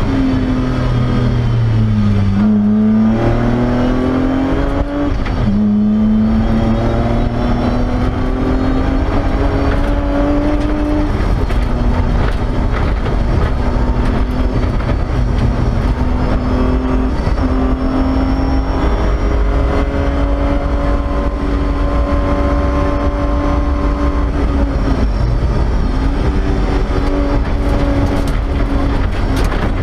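BMW E30 rally car's engine heard from inside the cabin, driven hard on a stage: the revs fall and climb again about two seconds in, drop sharply near six seconds, then rise slowly and hold a steady high note, with a dip and climb again near the end. Road and tyre noise runs underneath.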